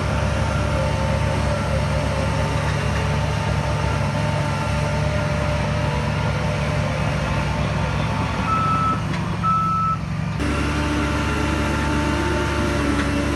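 A heavy diesel machine's engine running steadily while a reversing alarm beeps over it. About ten seconds in, the sound cuts abruptly to a different steady engine note.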